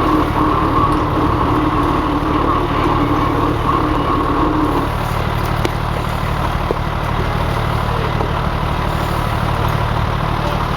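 Fire engine's diesel engine running steadily; a higher-pitched hum over it fades out about five seconds in.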